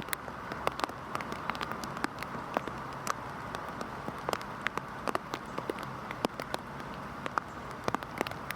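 Heavy rain falling steadily, a constant hiss with many separate drops ticking sharply at irregular moments.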